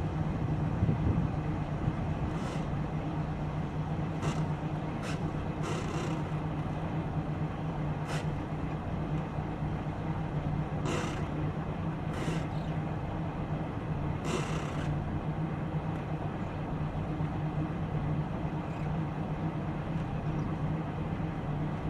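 Boat engine running at a steady speed, a constant low drone, with several brief hisses in the first part.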